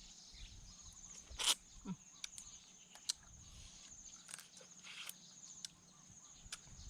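Eating sounds: scattered sharp crunches and clicks of blue-crab shell being chewed, the loudest about a second and a half in. Insects chirr steadily behind them.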